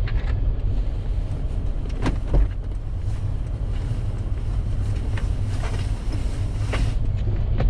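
A vehicle engine running, a steady low rumble, with a few short clicks or knocks about two seconds in and again near the end.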